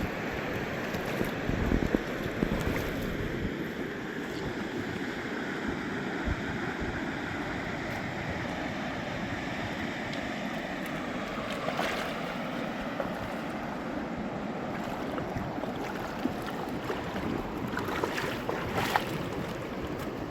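Mountain river rushing steadily, with wind on the microphone and a few sharp knocks, around two seconds in, twelve seconds in and near the end.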